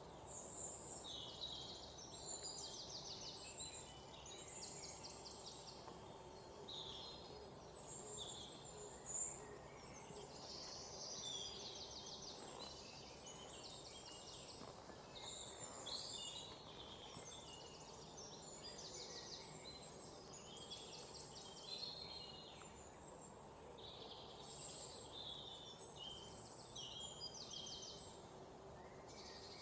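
Several songbirds chirping and trilling, with short high calls and quick rattling trills overlapping throughout and one louder chirp about nine seconds in, over a faint steady background hiss.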